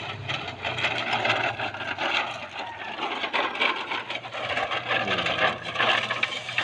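Tonka toy truck being pushed along, its wheels and body rattling and scraping in a continuous stream of small clicks.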